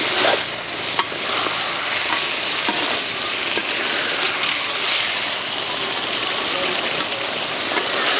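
Climbing perch and tomato pieces sizzling in oil in a metal pan, stirred with a metal spatula that taps and scrapes against the pan a few times.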